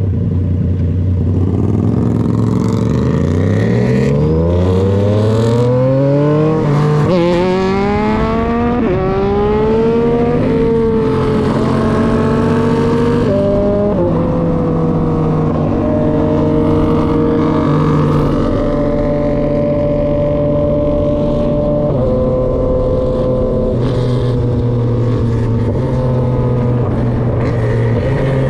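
Yamaha XSR motorcycle with an aftermarket SC-Project exhaust pulling away from a low engine speed. It accelerates hard through several gears, the exhaust note rising and dropping back at each upshift, then settles into a steady cruise with an occasional gear change.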